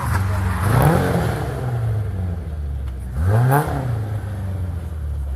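Honda F20C four-cylinder engine in a Datsun 1200 rally car revving, its pitch rising sharply about a second in and again about three seconds in.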